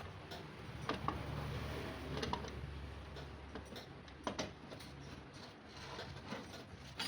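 Metal tools and parts clicking and clinking as they are handled during scooter transmission work, with scattered sharp clicks over a low hum that fades about three and a half seconds in.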